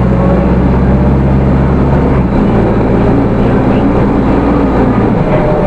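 Hino Rainbow II city bus with its 4HK1 four-cylinder diesel, heard running on the road; its engine note shifts about two seconds in and again near the end.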